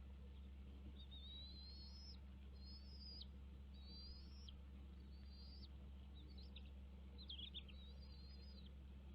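Bald eagle calling: a series of about seven thin, high whistled calls, each up to a second long, rising slightly and then dropping off sharply, repeated roughly once a second. A steady low hum lies underneath.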